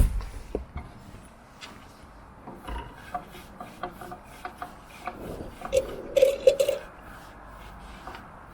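Irregular rubbing and scraping with scattered knocks: a sharp knock at the start and a run of scratchy strokes about six seconds in.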